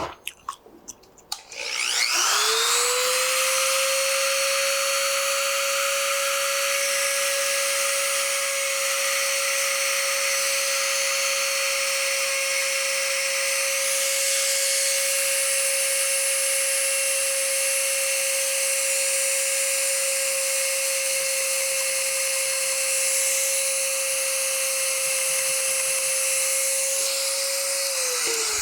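Small high-speed rotary power tool spinning up about two seconds in, running at a steady high whine for about 26 seconds, then spinning down near the end. It is grinding down a repair on a wooden rifle stock.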